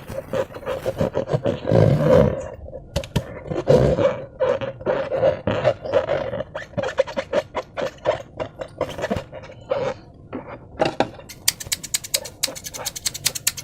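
Slime squelching and popping as it is squeezed and kneaded by hand, a dense irregular run of wet squishes; near the end it turns to a fast run of sharp clicks.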